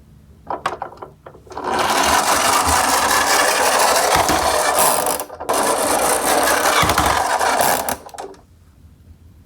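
Toy garbage-truck minicars rolling down a slope: a few light clicks, then two long, loud rattling rolls of about three and a half and two and a half seconds with a short break between.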